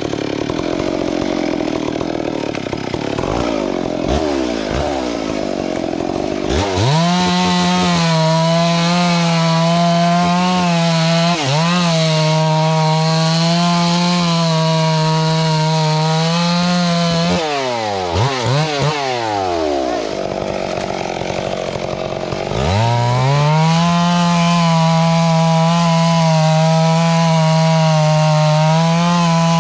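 Two-stroke chainsaw idling, then revved to full throttle about six seconds in and held at a steady high pitch while cutting wood. Around the middle it drops back to idle with a few quick throttle blips, then revs up to full again for the last third.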